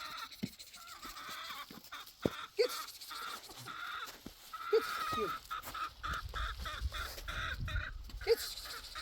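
Birds calling: a few short falling calls over a steady background of chattering.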